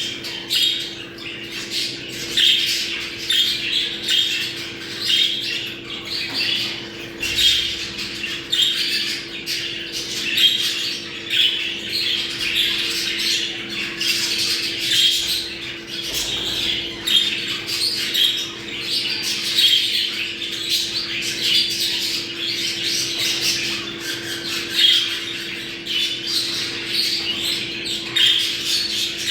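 Many budgerigars chattering and warbling at once, a dense unbroken stream of overlapping chirps and squawks: budgie breeding-flock chatter. A steady low hum runs underneath.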